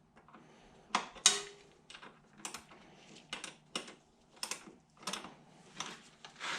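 Irregular light metallic clicks and clinks, about ten over several seconds, from a wrench working on the battery terminal bolts.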